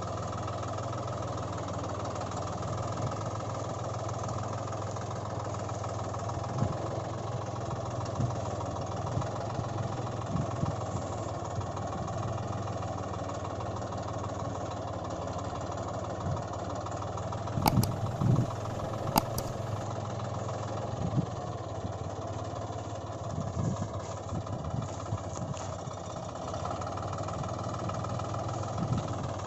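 Engine idling with a steady, even hum, broken by two sharp clicks about two-thirds of the way in and a few light knocks after them.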